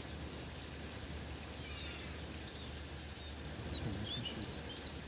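Steady low outdoor rumble with a few faint high bird chirps, a short cluster about two seconds in and more near four seconds.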